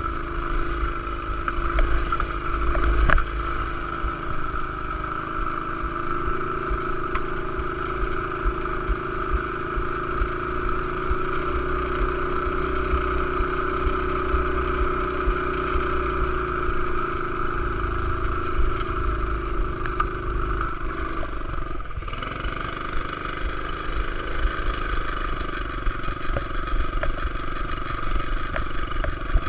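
Pit bike engine running steadily, its pitch drifting up and down a little, with a brief drop about 21 seconds in.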